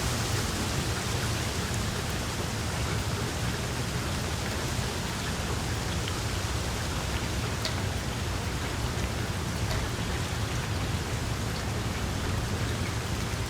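Wood fire crackling in a fireplace: a steady hiss with scattered small pops, one sharper pop a little past halfway.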